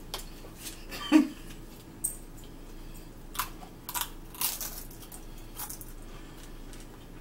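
Eating sounds close to the microphone: crunchy food being bitten and chewed, in scattered short crunches.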